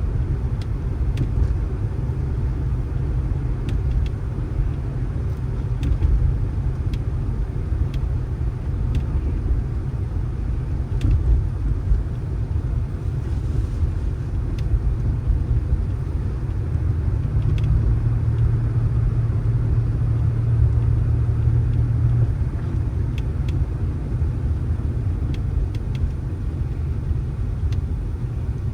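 A motor vehicle driving, with a steady low rumble of engine and road noise. A steadier low hum holds from a little past halfway until about two-thirds of the way through. Faint scattered clicks sit over it.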